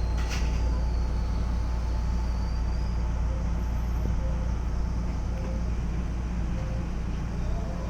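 Cabin of a Keisei 3400 series electric train standing at a station platform: a steady low hum from the car's onboard equipment and ventilation, with a faint high whine and one short click near the start.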